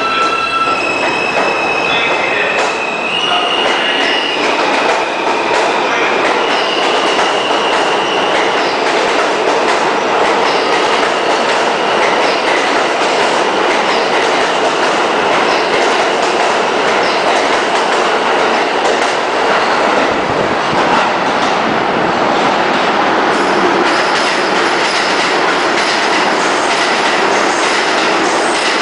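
R160A subway trains: the electric motors of a departing train whine in rising steps over the first few seconds. This gives way to a loud, steady rumble of wheels on rail with clickety-clack as a train runs through the station.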